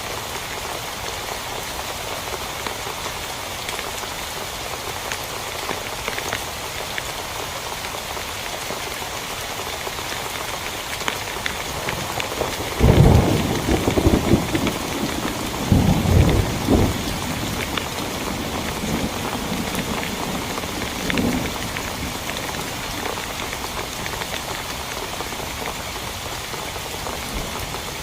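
Steady heavy rain falling on a tent, with thunder rumbling twice in the middle and a fainter rumble a few seconds later.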